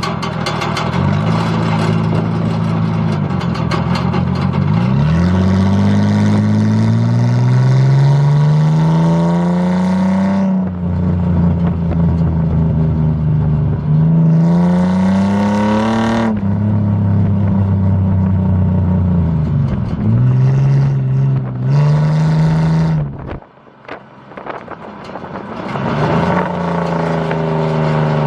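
Pickup truck engine with a straight-piped exhaust and vertical stack, revving and rising in pitch several times, with long climbs and some shorter blips. It drops away sharply once, about four-fifths of the way through, then comes back and winds down.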